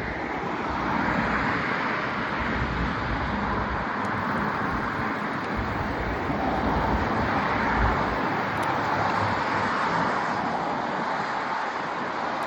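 Steady rush of wind and road noise while cycling, with slow swells and low gusts buffeting the microphone.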